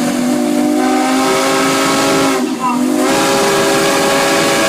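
Steam whistle on a steam traction engine blowing two long blasts, with a short break about two and a half seconds in. The second blast is slightly higher, and steam hiss runs under the tone.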